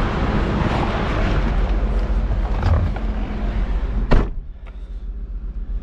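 Car door shutting with a single loud thump about four seconds in, after a steady outdoor rumble of wind and the idling 4.0-litre V8 of a 2002 Jaguar XK8. After the thump the sound is quieter and muffled, with a few small clicks.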